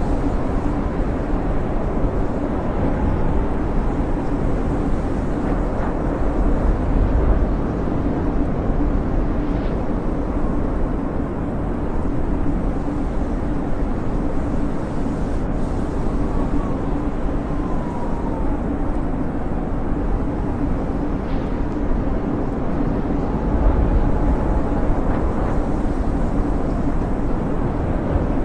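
Snowstorm wind howling: a steady, loud rushing roar with a deep rumble, and faint whistling tones that glide up and down now and then.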